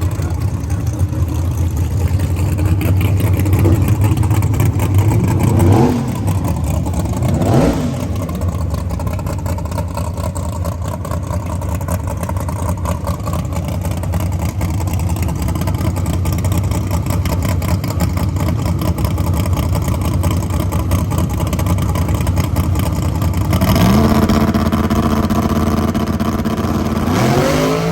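Drag-race car engines running loud and steady, with two quick revs that rise and fall sharply about six and eight seconds in. Near the end the engines rev up again, pitch climbing.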